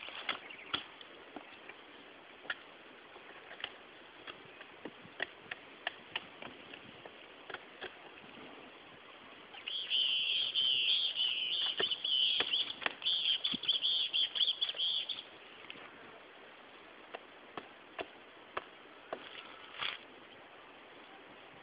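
Bird chirping in rapid, high notes for about five seconds in the middle, over scattered light clicks and taps.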